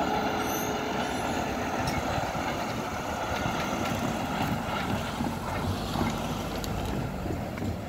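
Steady rumble and hiss of a freight train of covered hopper cars on the tracks, with faint tones fading out in the first two seconds.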